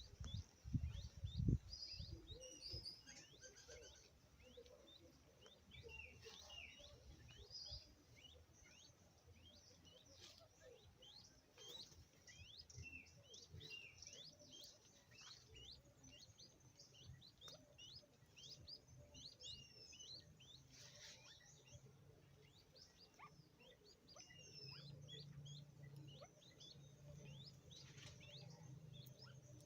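Many small birds chirping faintly, a dense stream of short, high chirps several times a second. A few low thumps sound in the first two seconds, and a low hum comes in about three quarters of the way through.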